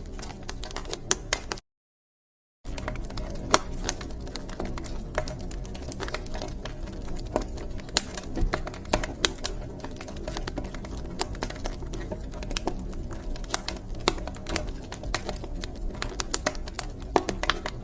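Wood fire crackling in a fireplace: a steady low rumble under a constant scatter of sharp pops and snaps. The sound cuts out completely for about a second near the start, then resumes.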